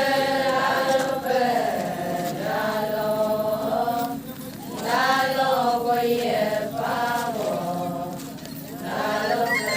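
Voices chanting an Adi ponung song: long held, sliding sung phrases with short breaks between them.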